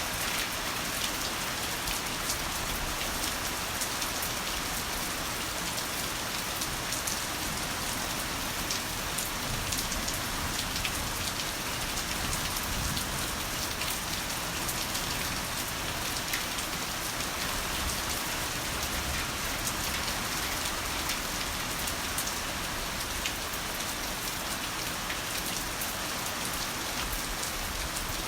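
Heavy rain falling steadily: a dense, even hiss of rainfall with many individual raindrops ticking close by.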